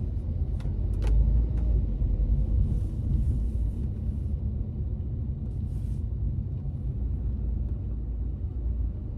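Steady low road and engine rumble inside a moving car's cabin, with three short clicks about a second in.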